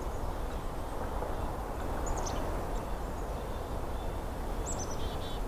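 Faint, short, high calls of small winter songbirds, black-capped chickadees and dark-eyed juncos, twice: once about two seconds in and again near the end. Under them runs a steady background rush.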